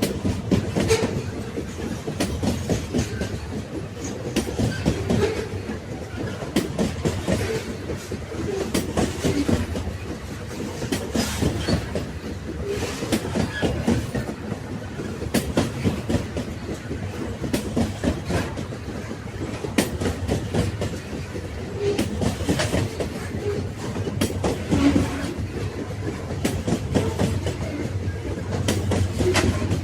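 Railway wagons running on the rails: a steady low rumble with many short, irregular clacks of the wheels over the track.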